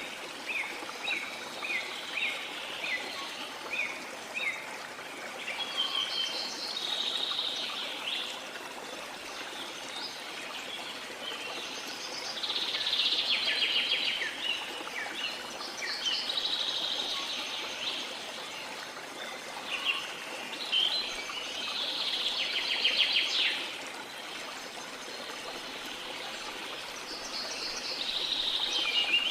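Tropical rainforest birds singing over the steady rush of a waterfall: a run of short falling whistles, about two a second, at first, then bursts of busier, higher song every few seconds.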